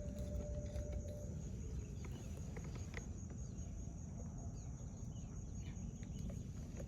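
Outdoor ambience with a steady low rumble, faint distant bird calls and a few light clicks. A steady tone fades out about a second in.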